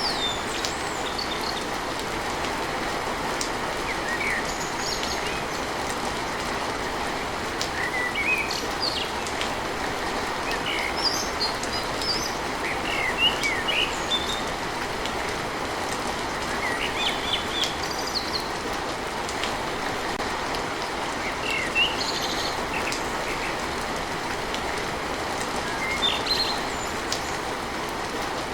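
Steady rain falling on a tin roof, with birds chirping in short calls every second or two over the rain.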